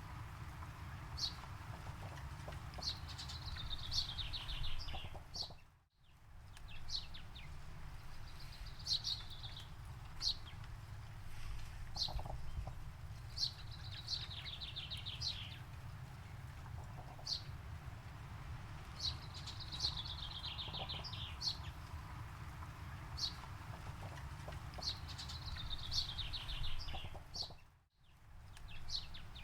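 Forest birdsong: a bird repeats a short trilled phrase every two or three seconds, with scattered chirps from other birds, over a steady low rumble. The sound cuts out briefly twice, about six seconds in and near the end.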